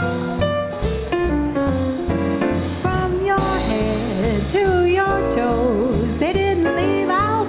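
Small-group swing band playing an instrumental passage: a bass walking about two notes a second under piano and drums, with a lead melody line bending and swelling with vibrato from about halfway through.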